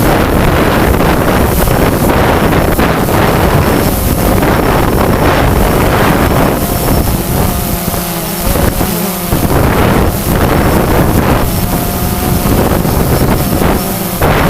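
Strong gusty wind buffeting the microphone, loud, with brief lulls about eight and nine seconds in.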